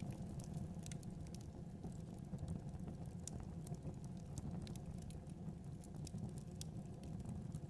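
Fire burning in a fireplace: irregular crackles and pops, a few each second, over a steady low rumble.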